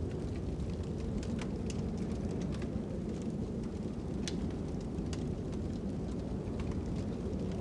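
Crackling fire: sharp pops and snaps, roughly two a second at irregular intervals, over a steady low rumble of wind.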